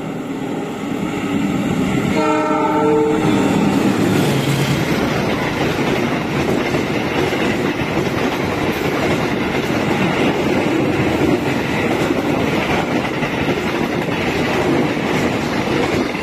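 A diesel train horn sounds a steady chord of several tones for the first few seconds. Then a passing train takes over: a brief falling engine note as the locomotive goes by, followed by the loud, steady rush and clatter of its carriages passing close alongside on the next track.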